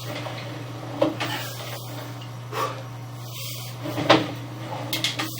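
Sewer inspection camera equipment: three knocks about a second and a half apart, the last the loudest, over a steady low hum.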